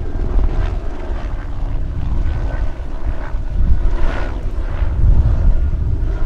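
News helicopter flying past, its rotor and engine noise a loud, fluttering rumble.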